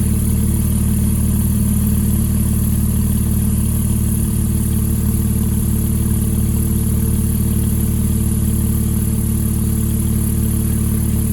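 2007 Porsche 911 (997) Turbo's twin-turbocharged 3.6-litre flat-six engine idling steadily.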